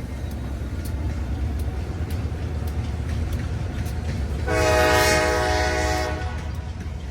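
Freight train's locomotive horn sounding one blast of about two seconds, several notes at once, about halfway through, over the steady low rumble of the passing train.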